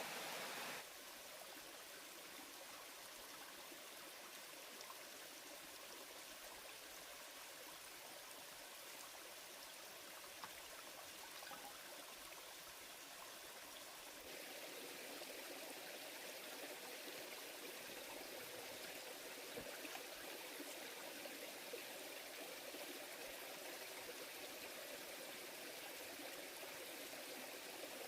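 A small stream running steadily, a faint even rush of water that gets louder about halfway through.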